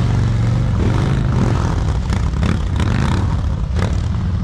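Motorcycle engine running at low speed, a steady low rumble with small changes in throttle as the bike is manoeuvred slowly.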